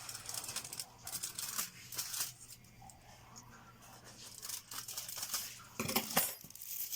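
Aluminium foil being pulled off and torn into a piece, a crinkling rustle of small crackles and rips, louder about six seconds in.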